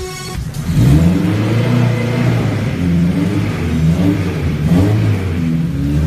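Race car engine running loud after coming up about a second in, then revved up and down with several throttle blips.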